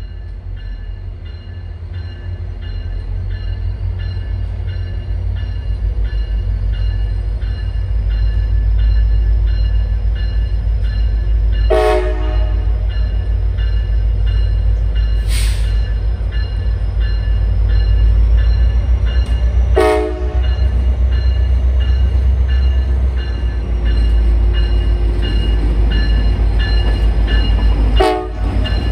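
A diesel passenger train led by ex-Amtrak EMD F40PH locomotives approaches with a deep engine rumble and its horn sounding. The sound grows steadily louder as the train nears. Several sharp breaks in the sound come about halfway through and again near the end.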